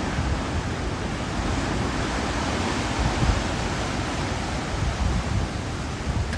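Hurricane wind blowing steadily, with low rumbling gusts buffeting the microphone.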